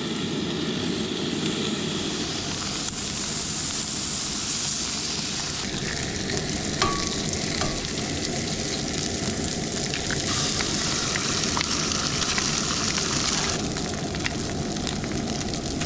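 Bacon and eggs sizzling in a frying pan: a steady sizzle with many small pops.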